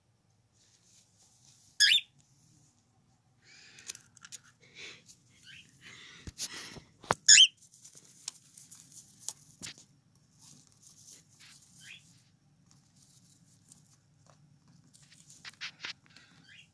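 Cockatiel giving short, shrill chirps, two of them loud, about two seconds and seven seconds in, with a few fainter calls later. Scratchy rustling and a few sharp clicks come in between.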